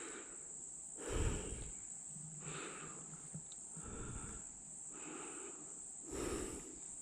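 Slow footsteps rustling through dry leaf litter, about one step a second, over a steady high-pitched insect drone.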